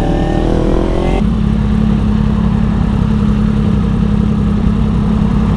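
Motorcycle engine running steadily under a rushing noise. A man's singing trails off about a second in.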